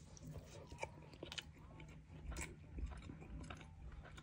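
A person chewing a mouthful of chicken biryani: faint, irregular mouth clicks and smacks.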